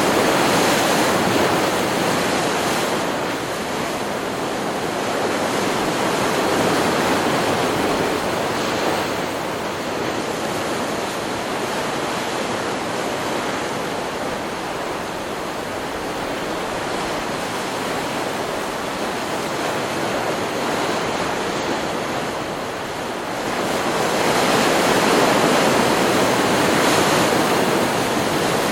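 Ocean surf: waves breaking and washing on a beach in a continuous rush of noise, swelling louder near the start and again a little past two-thirds of the way through.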